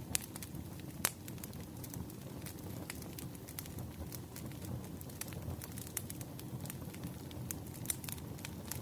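Wood fire crackling: a steady low rumble with frequent sharp pops and snaps, the loudest about a second in.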